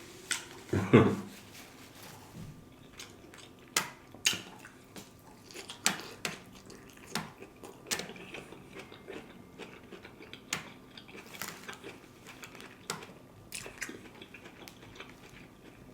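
Close-up mouth sounds of a person chewing and biting stuffed bell pepper with ground beef, cheese and rice: irregular wet crunches and smacks. There is a brief murmur from the eater about a second in.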